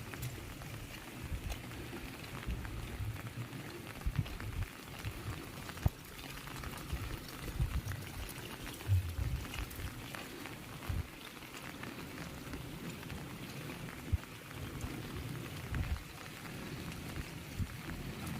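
Heavy rain falling steadily, with scattered louder drips and drops striking nearby surfaces.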